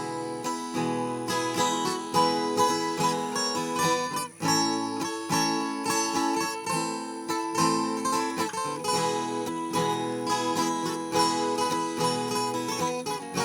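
Viola caipira, the Brazilian ten-string folk guitar, picked in an instrumental introduction: a run of quick plucked, ringing notes, with a brief break about four seconds in.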